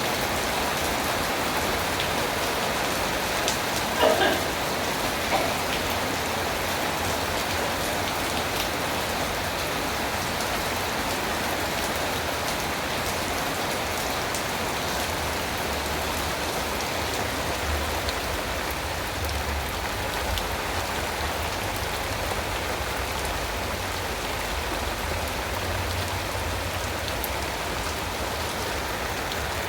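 Steady rain falling on surfaces, an even hiss throughout. About four seconds in, a short pitched voice-like call rises briefly above the rain, and a low rumble comes and goes in the second half.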